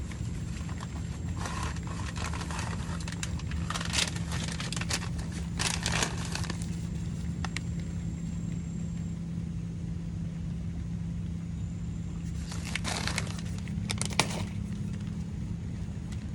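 A steady low engine hum, with several short bursts of rustling and crunching over it.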